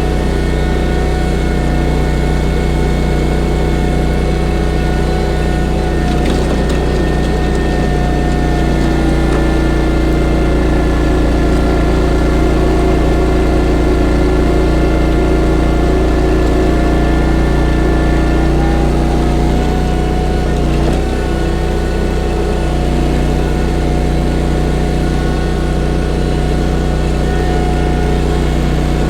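Engine of a Baumalight WRL58G stand-on mini skid steer running steadily under load, powering a hydraulic 46-inch WIFO snowblower, with a steady whine over the engine. The sound swells a little through the middle and dips briefly a few seconds later.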